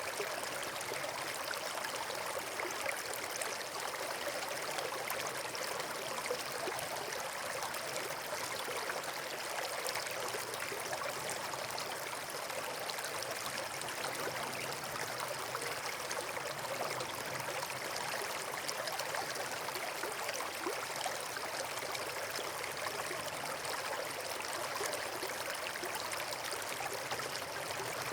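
Steady rush of flowing water, like a stream or small waterfall, with a fine constant splashing texture.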